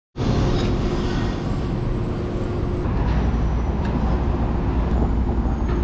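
Steady low rumble of a running vehicle with a faint held hum over it, starting just as the sound comes in.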